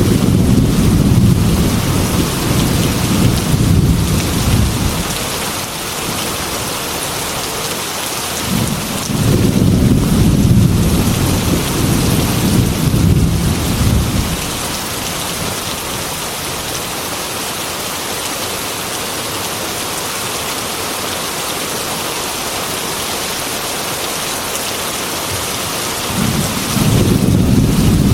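Heavy rain pattering steadily on a glass window, with rolling thunder rumbling three times: at the start, for several seconds from about 8 seconds in, and again near the end.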